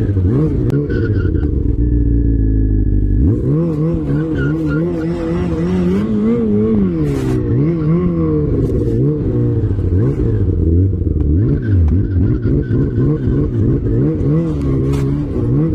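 Off-road vehicle's engine revving up and down over and over as it is driven over rough ground, with a lower, steadier drone for about a second near the start, and scattered knocks and clatter.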